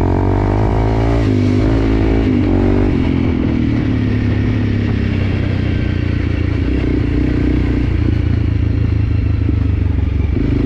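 Enduro dirt bike engine running while riding a trail. Its pitch shifts up and down over the first few seconds, then holds steadier.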